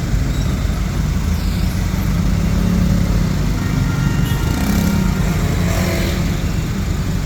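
Steady low rumble of motor vehicle noise, with no distinct events.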